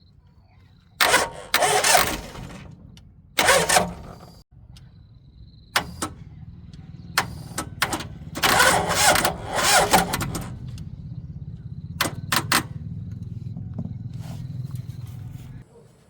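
Old car engine being started: short bursts of cranking, then it catches and runs steadily, revs up twice, and cuts off abruptly near the end.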